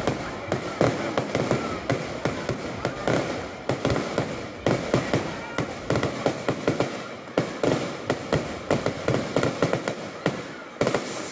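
Aerial fireworks going off: a rapid, dense string of bangs and crackles from bursting shells, several a second. Near the end the sound changes abruptly to a brighter hiss.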